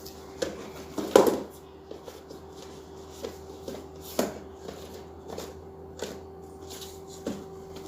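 Irregular light knocks and rustles, the loudest about a second in, over a steady hum.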